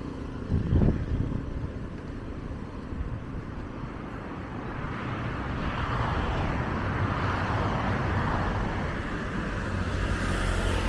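Street traffic on a busy city road: a steady low rumble of engines, with a vehicle coming closer and louder from about halfway through and a deep engine hum near the end. A short knock sounds about a second in.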